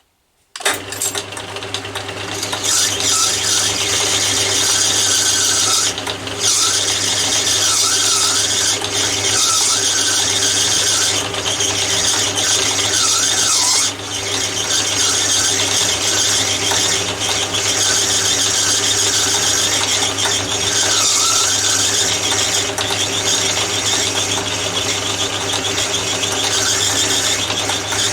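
Atlas 10 metal lathe starting abruptly about half a second in and then running steadily while taking a turning cut on brass rod, with a steady hum and a wavering high whine.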